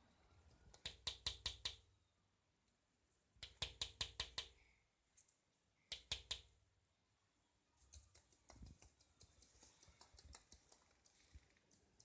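A parrot knocking on a hard surface in quick runs of sharp taps, about seven or eight a second: three loud runs in the first half, then a longer, fainter run of taps near the end.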